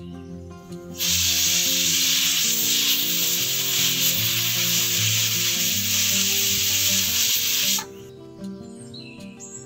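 Pressure cooker whistle: steam forcing up the weight valve and escaping in a loud, steady hiss for about seven seconds, starting about a second in and cutting off suddenly, the sign that the cooker has come up to pressure.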